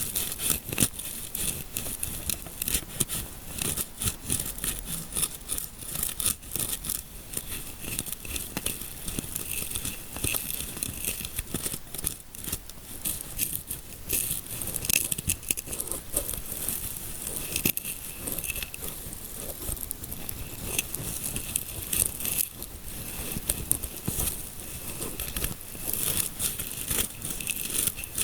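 Fingers rubbing and scratching close to the microphone in an ASMR scalp massage: a continuous, irregular run of crackly, crinkling scrapes.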